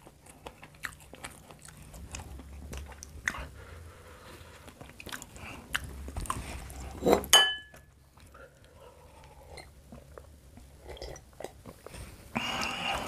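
Close-up chewing and biting of fried petai (stink beans): many small irregular crunches and mouth clicks. There is a louder sudden sound about seven seconds in and another louder stretch near the end.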